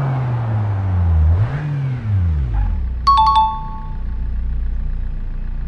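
Car engine running: its pitch sags, it is blipped once in a quick rev and fall, and it settles into a low, steady idle. About three seconds in, a few quick electronic chime beeps sound over it.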